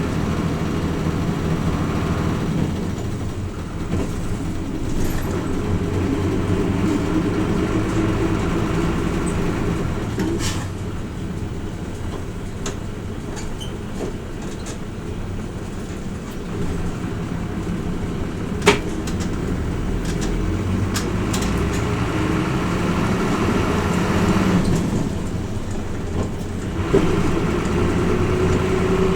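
Hino Rainbow RJ city bus's diesel engine running as the bus drives, its pitch rising as it accelerates about a fifth of the way in and again near the end. A single sharp click about two-thirds of the way through.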